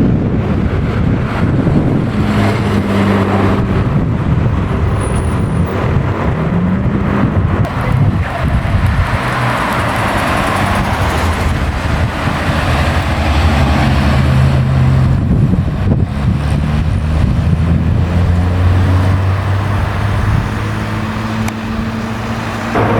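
Engines of classic cars running at low speed, their pitch rising and falling as they are driven past and throttled lightly.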